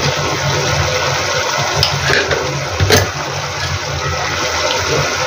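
Tomato purée frying in hot oil in a steel kadai, a steady sizzling and spattering, with one sharp knock about three seconds in.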